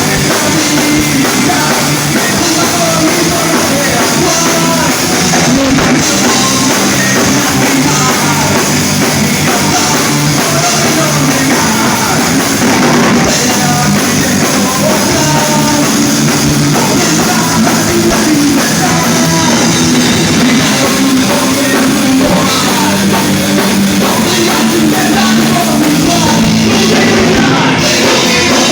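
Rock band playing live at full volume, drum kit driving the song, with no break.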